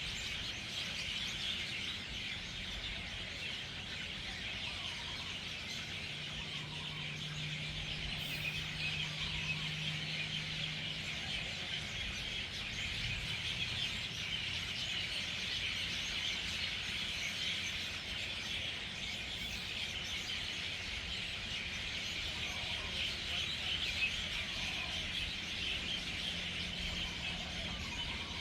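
Dense, continuous chirping of a large flock of birds gathering at an evening roost, many calls merging into one steady din. A faint low hum runs beneath it from about six to eleven seconds in.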